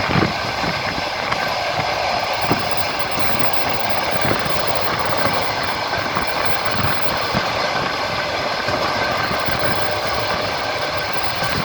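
Passenger train running along the line, heard from aboard: a steady rolling rumble with the wheels knocking over rail joints.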